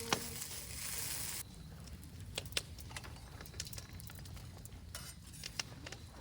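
Cooking utensils clinking and tapping against a pan or dish a few separate times, over a hiss that cuts off about a second and a half in.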